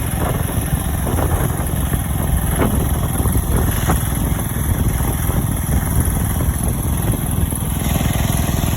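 A steady, loud low rumble with a few faint ticks.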